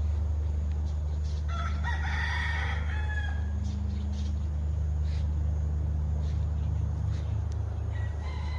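A large fowl's loud, drawn-out crowing call about a second and a half in, with a shorter call near the end, over a steady low rumble.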